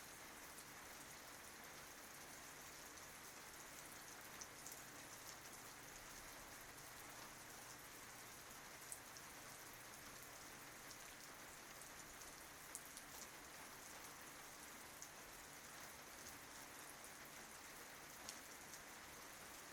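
Faint, steady rain falling on tree leaves: an even hiss with scattered single drops ticking a handful of times.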